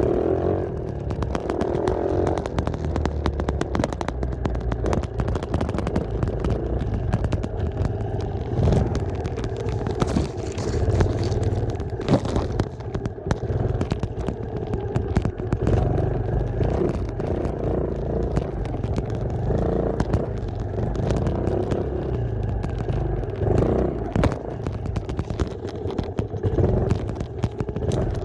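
Dirt bike engine running while riding, its pitch rising and falling with the throttle, with frequent clattering knocks.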